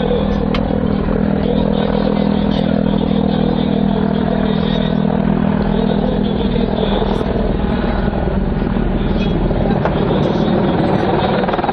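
Mi-28NT attack helicopter flying a display: twin turbine engines and main rotor running loud and steady. A low steady hum drops away about seven seconds in, leaving the broad rotor and engine noise.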